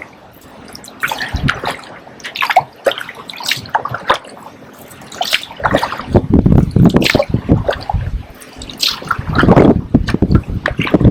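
Kayak paddle blades dipping and splashing in the water at irregular strokes, with water dripping off them. From about halfway through, wind buffets the microphone with a low rumble.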